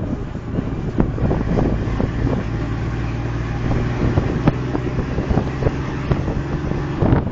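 Fire truck driving, its engine running with a steady low hum, with wind buffeting the microphone and scattered rattles and knocks.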